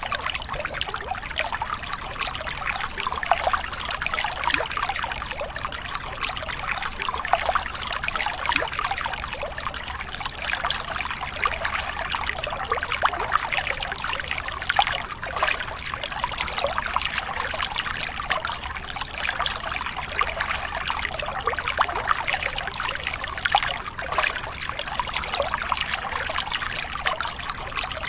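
Water running in a steady trickle with fine splashing, unbroken throughout.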